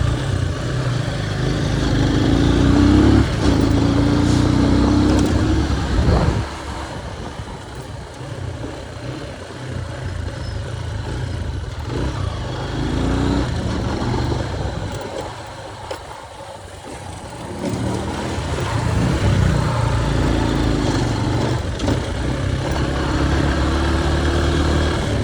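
Motorcycle engine under way, revving up in several rising pulls as it accelerates, with a heavy low wind rumble on the microphone. It eases off about a quarter of the way in and picks up again near the end.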